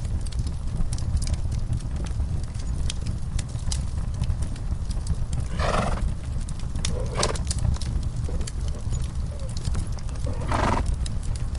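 Wood fire crackling with many sharp pops over a steady low rumble, while a horse in its stall gives three short calls, at about six, seven and ten and a half seconds in.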